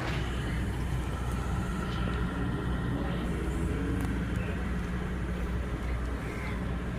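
A steady low motor hum, even throughout, with faint voices in the background.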